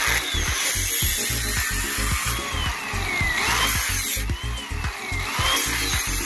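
Background music with a steady beat over a power tool running, its whine rising and falling in pitch.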